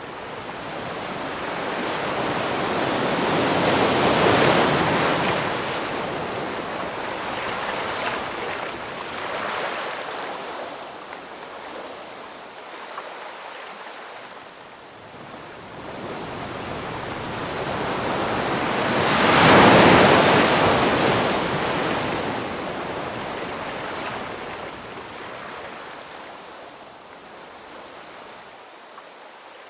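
Ocean waves breaking and washing in. Two large waves swell up and crash, about four seconds in and again around twenty seconds, with smaller surges between them and a quieter ebb near the end.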